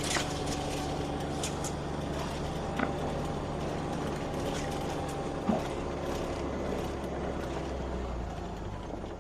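Utility vehicle (Mule side-by-side) engine running steadily as it drives, a low even drone, with two short knocks along the way; it eases down near the end.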